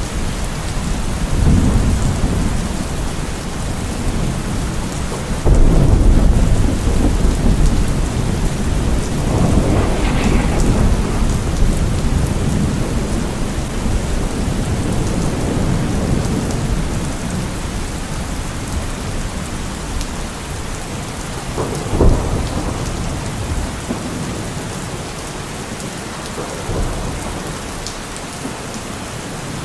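Steady rain with rolling thunder: a low rumble breaks in suddenly about five seconds in, another swells around ten seconds, and a short sharp thunderclap comes about twenty-two seconds in.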